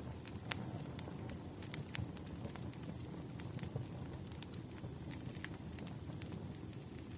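Wood fire crackling: irregular sharp pops and snaps of burning firewood over a steady low rush, with a faint thin high whistle coming in about halfway through.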